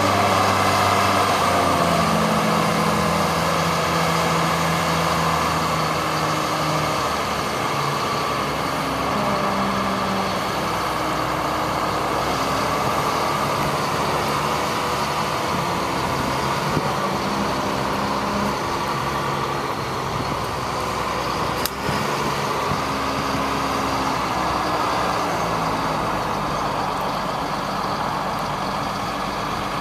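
1999 GMC digger truck's engine running, its speed stepping up and down several times, with a steady whine above it. A single sharp click about three-quarters of the way through.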